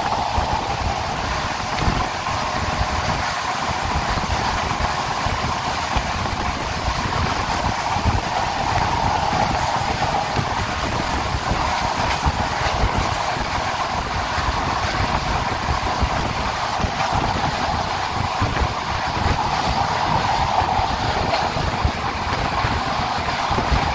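Diesel-hauled express passenger train running at speed, heard from an open coach window: a steady mid-pitched roar of wheels on rails, with many small irregular clicks and knocks.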